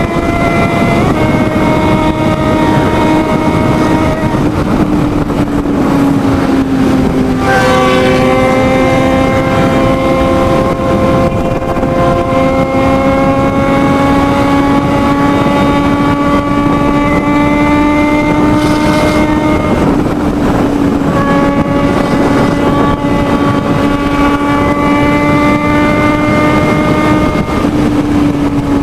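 Motorcycle engine running hard at high speed. Its pitch climbs slowly under acceleration and drops sharply at each upshift, about a second in, about 7.5 seconds in and about 20 seconds in, over steady wind rush.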